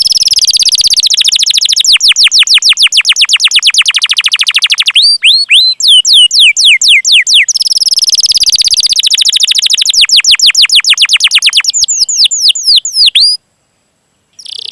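Canary singing: fast rolled trills of high whistled notes that each sweep downward, in two long runs that each slow into separate slurred 'cuit' notes. The song breaks off about a second before the end.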